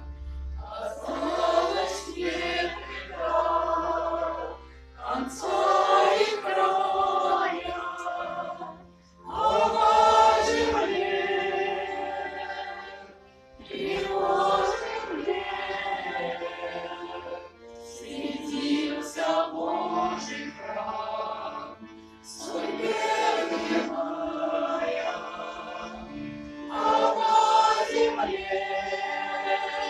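A choir singing a song in phrases of about four seconds, with brief breaks between phrases.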